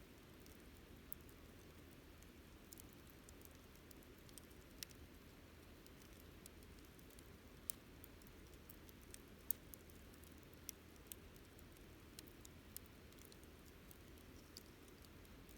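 Wood campfire crackling faintly: scattered small, irregular pops and snaps over a low, steady rush, with the sharpest snap a little past the middle.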